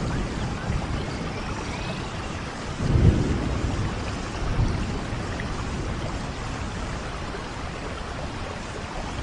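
Steady rain falling, with a low rumble that swells about three seconds in.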